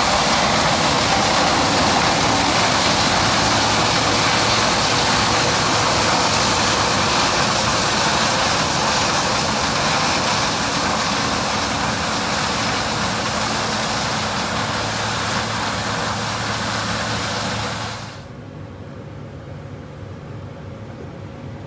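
New Holland CR 8.90 twin rotor combine harvesting corn: loud, steady machine noise with a hiss over a low engine hum. About 18 seconds in it drops suddenly to a much quieter, steady hum with a thin whine.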